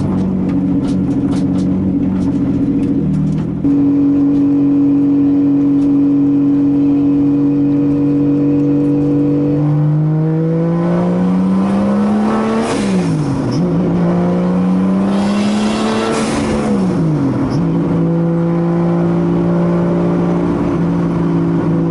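Turbocharged 2JZ-GTE straight-six in a 240SX drift car, heard from inside the cabin. It runs at a steady engine note, then twice pulls up in pitch as it is given gas, each time falling away sharply as the revs drop, before settling back to a steady run.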